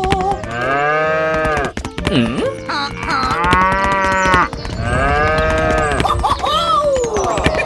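Cow mooing: several long, drawn-out calls, one after another, over background music.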